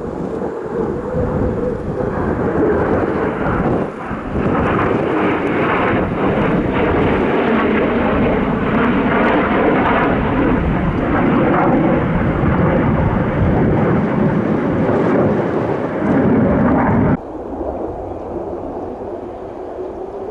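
Loud jet noise from a JASDF F-15 fighter's twin turbofan engines during a display flight, a dense rumble that builds over the first few seconds and then drops off abruptly about three seconds before the end.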